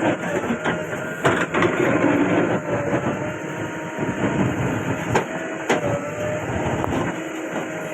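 Diesel engine of heavy earthmoving machinery running steadily, with a few sharp clanks: one about a second in and two more between five and six seconds.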